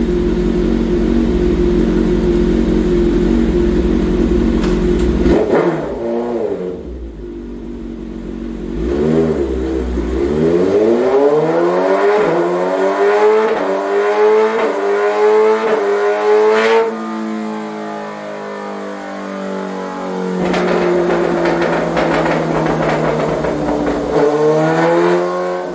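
2026 Kawasaki Ninja ZX-6R's inline-four engine, breathing through an M4 full exhaust, making a dyno pull. It runs steadily and revs briefly a couple of times. Then its pitch climbs for about seven seconds under full throttle, cuts off sharply, falls away and settles, and it revs again near the end.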